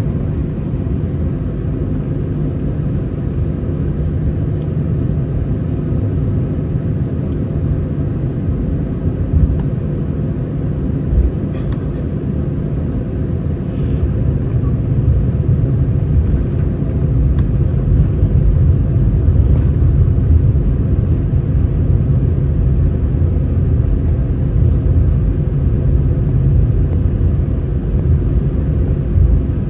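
Airbus A319 cabin ambience: the steady low rumble of the CFM56 engines and airflow heard from inside the cabin, with a couple of brief knocks about ten seconds in. The rumble grows somewhat louder about halfway through.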